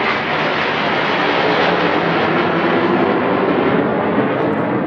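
Jet aircraft flying past: a loud, steady rushing jet noise whose highest part fades slightly after about three seconds as it moves away.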